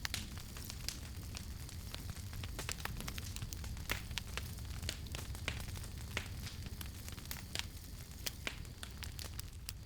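Wood campfire burning with a steady low rumble of flames and irregular sharp crackles and pops, several a second.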